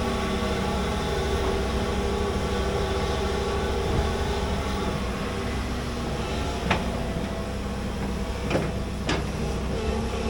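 Large hydraulic excavator's diesel engine running steadily under digging work, with three sharp clanks from the machine about two-thirds of the way in and near the end.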